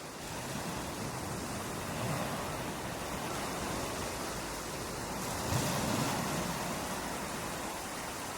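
Ocean surf: a steady wash of waves, with a wave breaking and surging louder about five and a half seconds in.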